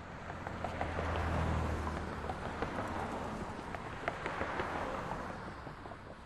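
Street traffic: a vehicle passing, its low engine hum and tyre noise swelling to a peak about a second and a half in. A second swell of tyre noise follows around four to five seconds in and fades near the end, with scattered small ticks throughout.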